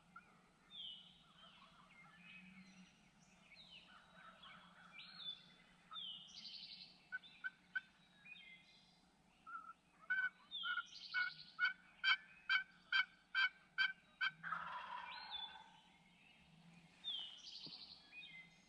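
Wild turkey calls: a steady series of about ten yelp-like notes, followed by a rattling gobble about a second long. Small songbirds chirp throughout.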